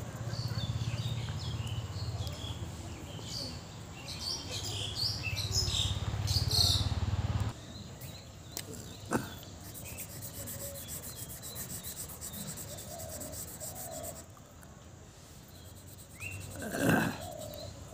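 Small birds chirping in the background, with a steady low hum that cuts off about halfway. Near the end a felt-tip marker rubs on paper, and there is one brief louder noise.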